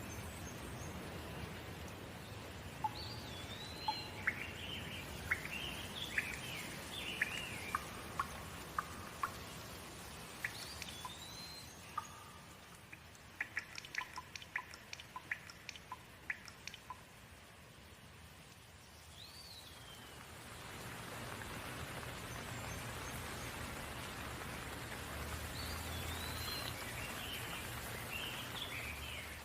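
Steady rain with birds chirping over it in short, rising and falling calls. Around the middle the rain thins and a quick run of sharp ticks is heard, then the rain swells again about two-thirds of the way through.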